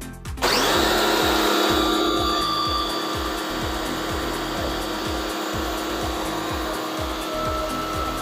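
Autopramie AP-JC8000 pressure washer's carbon-brush motor switching on about half a second in and then running steadily under load with a steady hum.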